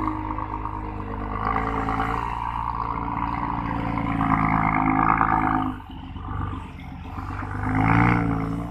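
Heavy diesel engine of earthmoving machinery working under load, its note swelling and easing: loudest from about four to six seconds in, a sudden brief drop, then another swell near the end.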